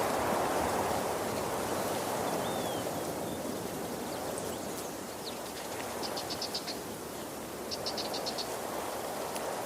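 Waterfall rushing steadily, swelling and easing slightly. Two short, high, rapid chirping trills from wildlife come about six and eight seconds in.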